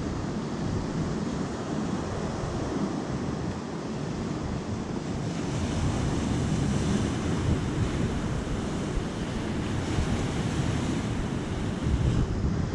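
Sea surf washing on the shore, with wind buffeting the microphone; a wave swells into a louder hiss around the middle.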